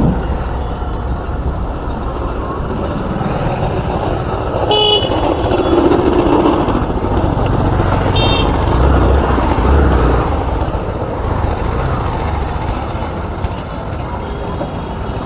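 Busy street traffic noise with two short vehicle horn toots, one about five seconds in and another about three seconds later.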